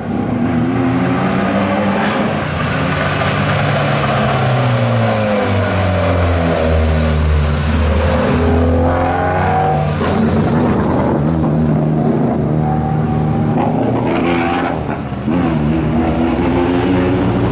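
Hill-climb race car engine running hard, its pitch climbing and dropping back with each of several gear changes. There is a short drop in loudness about fifteen seconds in before the engine pulls again.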